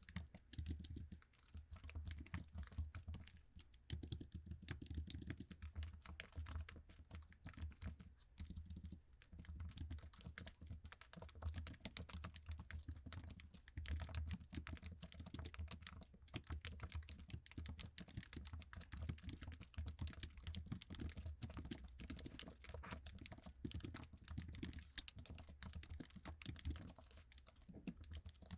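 Fast, continuous typing on a stock Apple iMac keyboard: a steady stream of light key clicks, several a second, each with a soft low thud as the key bottoms out.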